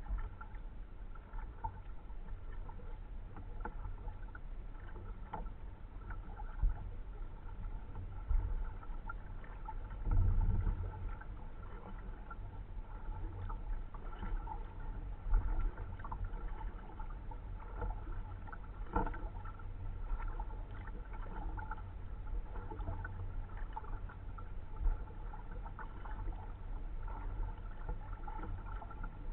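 A kayak being paddled: paddle strokes and water sounds over a low rumble, with a few louder knocks scattered through.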